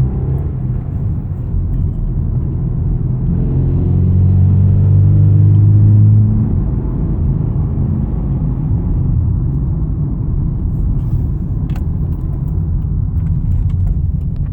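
Subaru Impreza TS engine running warm, revved up about three seconds in and held for a few seconds before dropping back to idle. The engine is misfiring and short of power.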